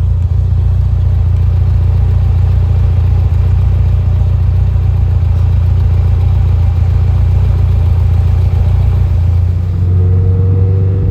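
Ferrari 208 GTS's turbocharged V8 running steadily with a low rumble.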